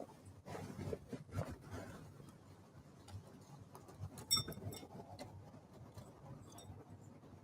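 Faint, irregular tapping and knocking of birds at a feeder, with one short high bird call about four seconds in.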